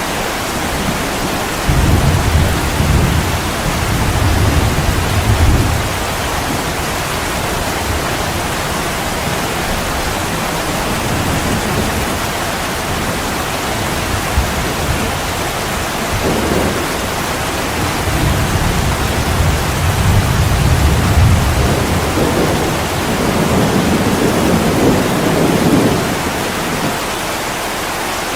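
Heavy rain pouring steadily on a window, with low rolling thunder rumbling in twice: from about two seconds in for several seconds, and again over the last third.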